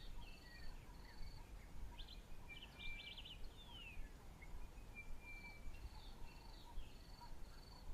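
Faint birds calling: a repeated high pulsed whistle, scattered short chirps and a few brief descending notes, over a low steady rumble.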